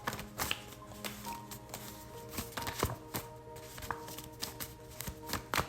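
Soft background music of steady held tones, with oracle cards being shuffled and handled: irregular light clicks and flicks, a sharper one near the end.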